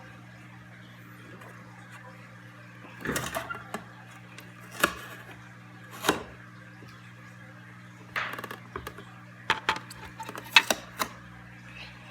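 Short clicks and knocks of plastic coffee-maker parts being handled and fitted together: single knocks about 3, 5 and 6 seconds in, then a quick cluster near the end. A steady low hum runs underneath.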